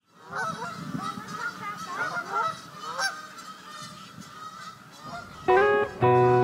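A flock of geese honking, with many overlapping calls that thin out after about three seconds. A plucked guitar chord rings out about five and a half seconds in, just as music begins.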